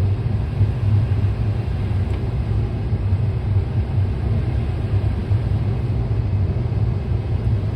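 Steady cockpit noise of a private jet on final approach: a constant low rumble of engines and airflow with a hiss above it.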